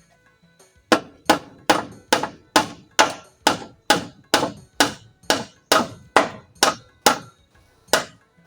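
Hammer striking in a steady run of about sixteen sharp blows, a little over two a second. The blows start about a second in and stop shortly before the end.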